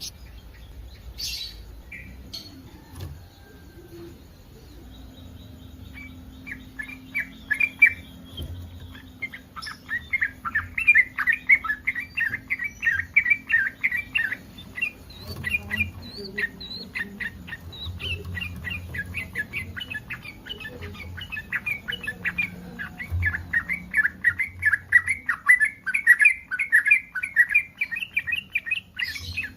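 Yellow-vented bulbul (trucukan) in breeding condition singing long runs of rapid, chattering notes. The song starts about six seconds in and goes on to the end, with two denser bursts.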